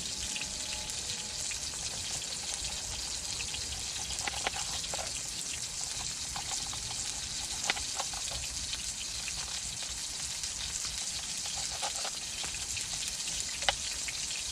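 A thick burger patty frying in oil in a pan over a campfire, a steady sizzle throughout. A few sharp clicks or knocks come through it, the loudest near the end.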